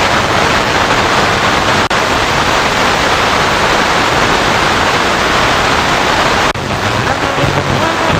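FM radio receiver putting out a loud, steady rushing static hiss, which the uploader calls anti-DX noise carried on many frequencies. The hiss drops out sharply at about two seconds and again at about six and a half seconds. After the second dropout a faint pitched signal, a weak station, sits under the noise.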